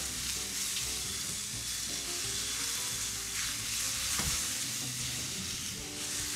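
Sliced mushrooms and julienned carrots sizzling in a non-stick frying pan as a spatula stirs and tosses them, scraping the pan now and then.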